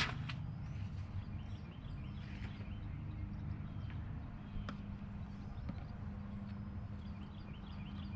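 Faint outdoor background of small birds chirping over a low steady hum, with a sharp click at the very start and a few light ticks later.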